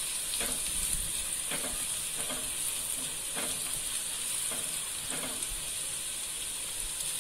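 Onions and spices sizzling steadily in hot oil in a nonstick kadai, with a silicone spatula stirring through them in soft strokes about once a second.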